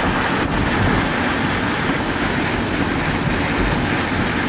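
Steady rushing wind and road noise from a moving car.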